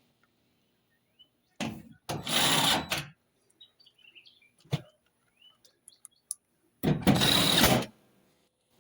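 Cordless impact driver running in two bursts of about a second each, driving screws back into the bottom of a dryer, with a sharp click between them.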